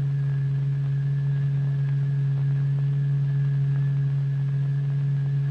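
Steady low electronic tone from a tone generator with faint overtones, the audible vibration frequency exciting a layer of turpentine into a regular lattice pattern.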